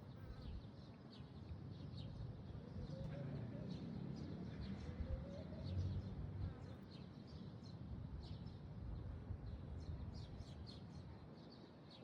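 Small birds chirping in many short, quick high notes over a low rumble of background noise.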